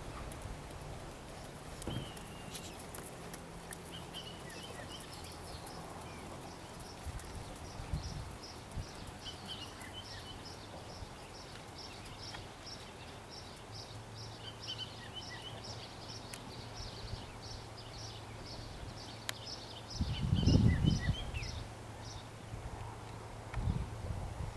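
Outdoor ambience: a small bird chirping over and over at about three chirps a second, a horse's hoofbeats faint on the sand arena, and a low steady hum. One loud low rumble about twenty seconds in.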